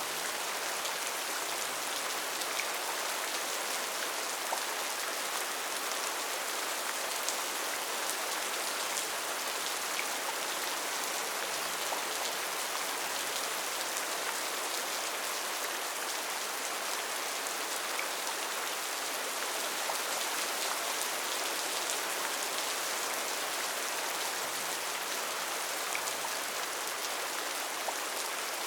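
Steady rain falling on rainforest foliage: an even hiss with scattered individual drop ticks.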